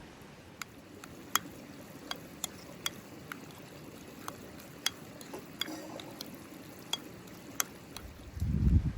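Cooking sounds: food stirred in a pot, with scattered sharp clicks like a utensil knocking the pot. A brief low rumble comes near the end.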